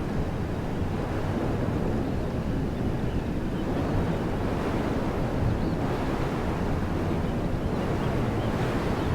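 Wind blowing through woodland trees, a steady rush that swells now and then in gusts, with a deep rumble of wind buffeting the microphone.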